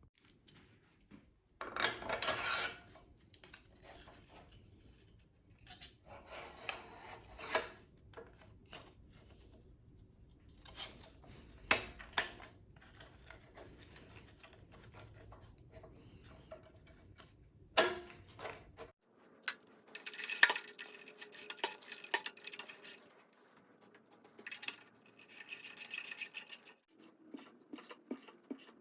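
Hands working on a scooter: intermittent scraping, rubbing and small clicks of wires and hard parts being handled, with a denser rattling scrape in the second half.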